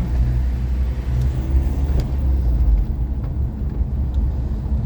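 Low, steady rumble of a car's engine and tyres heard from inside the cabin while it creeps along at low speed.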